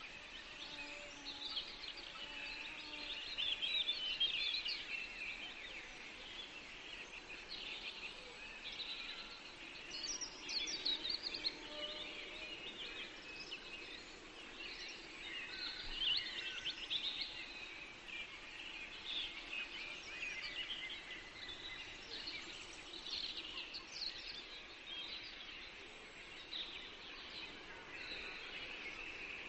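Forest birdsong: a dense chorus of many small birds calling and chirping at once, with no single song standing out.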